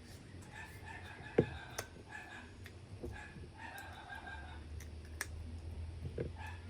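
Domestic fowl clucking in short repeated calls over a low hum, with a few sharp clicks and cracks, the loudest about a second and a half in.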